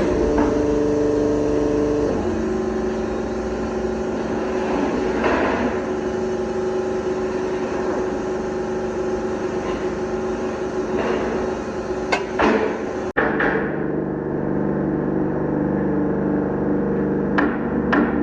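Workshop noise: a steady machine or engine hum with a few sharp metal knocks, like hammer blows. The hum changes abruptly about two-thirds of the way through.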